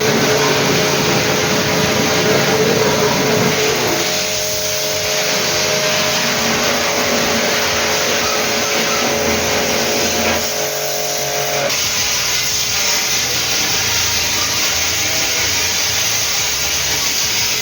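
A motor-driven machine running steadily with a rushing noise and a faint whine, which changes pitch about four seconds in and drops away about twelve seconds in.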